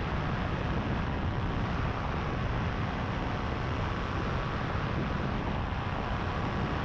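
Power2Fly RS paramotor engine and propeller running steadily in cruise flight, with wind rushing over the microphone.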